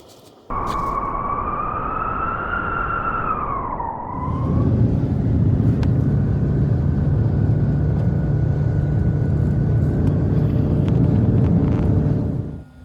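A single long howl, rising and then falling in pitch for about four seconds, followed by a loud low rumble that cuts off suddenly near the end.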